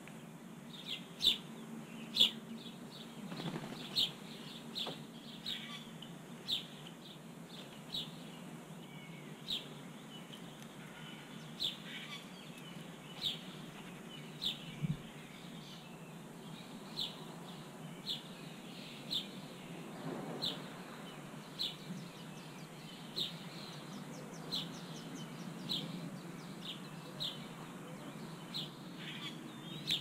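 Small bird chirping over and over, short sharp calls about once a second, some coming in quick pairs, over a steady outdoor hiss.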